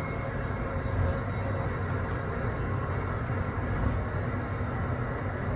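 Amtrak Northeast Regional passenger train running at speed on the Northeast Corridor, heard from inside: a steady low rumble of wheels on rail.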